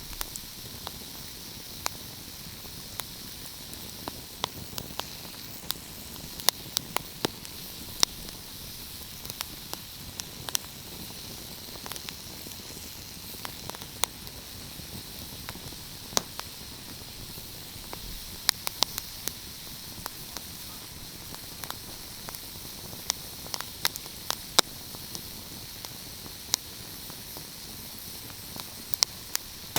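Fireplace fire crackling: sharp, irregular pops and snaps over a steady hiss.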